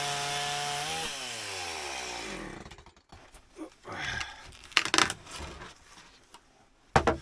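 Chainsaw on a chainsaw-mill carriage running at full throttle. About a second in the throttle is released and the engine winds down, falling in pitch until it goes quiet, as the first board's cut ends. A few knocks and clatters follow.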